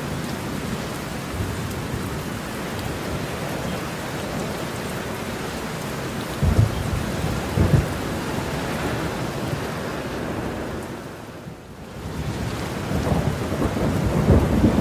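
Heavy rain falling steadily with thunder: two short low rumbles around the middle, then the rain briefly fades and comes back with thunder building up near the end.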